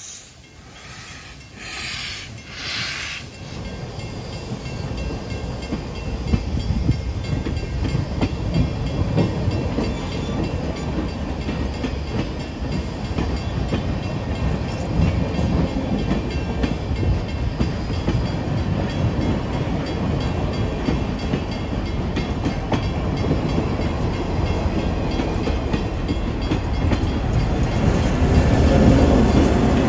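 Three short hissing puffs of steam in the first three seconds. Then passenger cars behind the Nickel Plate Road 765 steam locomotive roll past at low speed, their wheels rumbling and clicking over the rail joints, the sound swelling over the first few seconds and staying loud.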